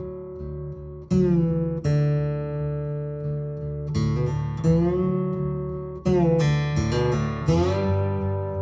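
Slow acoustic guitar music: chords struck every second or two and left to ring, some sliding into pitch.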